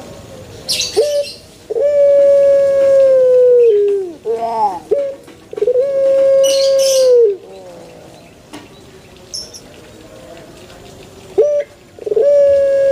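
A male puter dove (ringed turtle dove) cooing: a short note followed by a long, drawn-out, level coo that sags in pitch at its end. This happens twice, then pauses, and starts again near the end.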